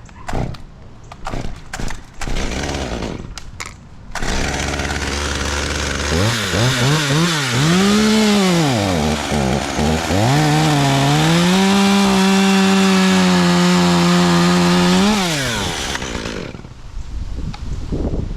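Two-stroke chainsaw starting about four seconds in and idling. It is then revved up and down several times and held at high speed for about five seconds, before dropping back and shutting off near the end. Before the saw starts there are a few scattered clicks and rustles.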